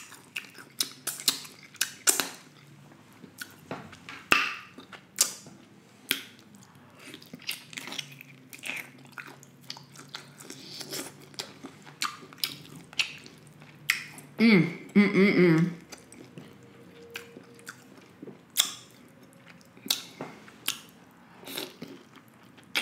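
Close-miked wet chewing, lip smacks and mouth clicks of someone eating soft deshelled seafood in butter sauce. About two-thirds of the way through comes one short vocal sound, the loudest moment.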